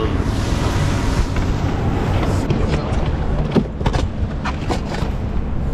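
Steady low rumble of a boat motor running, with wind on the microphone. A run of light clicks and knocks comes about halfway through.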